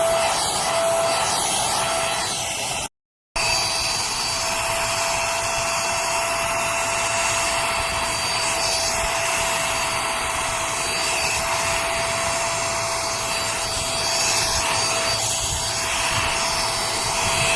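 Cordless handheld vacuum cleaner and air-duster blower running: a steady whine from its high-speed motor over a rush of air. The sound cuts out briefly about three seconds in, then carries on unchanged.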